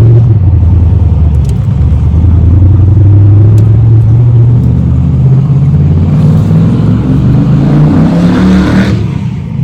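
A road vehicle's engine running, then accelerating with its pitch rising steadily for about four seconds before falling away sharply near the end.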